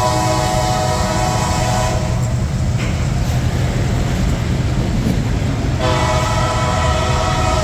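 Freight locomotive air horn sounding a chord of several notes over the low rumble of the passing train. One blast cuts off about two seconds in, and another starts near the end.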